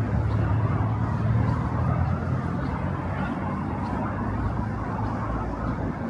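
Street ambience with a motor vehicle's engine running close by, a low hum that eases off about halfway through, over a steady wash of city noise.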